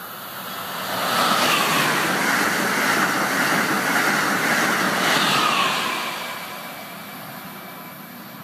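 Amtrak Acela high-speed electric train passing at speed: a rushing roar of wheels and air that swells in about a second, holds for about five seconds, then fades as the train recedes.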